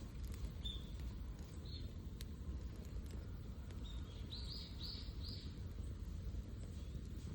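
A small bird chirping: single short chirps about a second and two seconds in, then a quick run of four chirps around four to five seconds in. A steady low rumble lies underneath.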